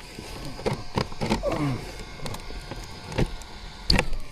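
Irregular light clicks and knocks from a Traxxas Slash RC car being handled.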